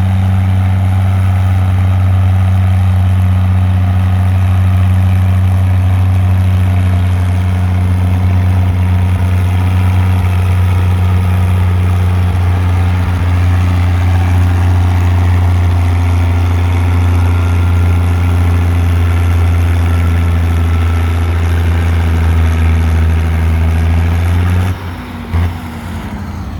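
Pulling tractor's engine running at a steady high speed with a deep, unchanging drone, then dropping off abruptly near the end as the pitch falls away.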